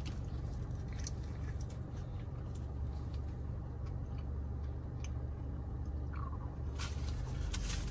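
A man chewing a mouthful of cheeseburger with his mouth closed: soft, faint mouth sounds and small clicks over a steady low hum in a car's cabin.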